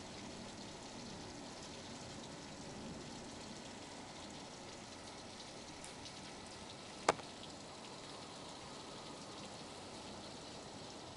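Heavy rain falling steadily, with scattered faint drop taps; one sharp tap stands out about seven seconds in.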